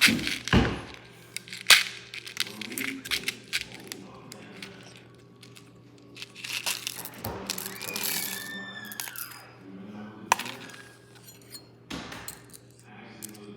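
M&M candies tipped into a plastic yogurt cup and handled with a spoon: scattered hard clicks and clinks, the loudest near the start and at a few moments later.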